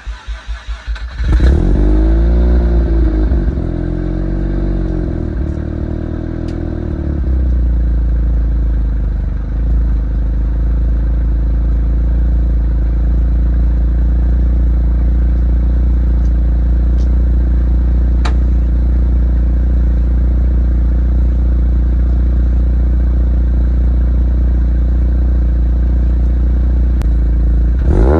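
Mazda RX-7 FD3S's 13B-REW twin-rotor rotary engine, through an RE Amemiya twin-tail muffler, cranking and catching about a second in. The idle then swings up and down in pitch for several seconds before settling into a steady, loud idle.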